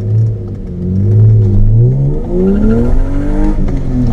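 BMW M52B28 2.8-litre straight-six with a straight-piped exhaust accelerating hard, its note rising in pitch. The rise breaks at a gear change about two seconds in and again near the end.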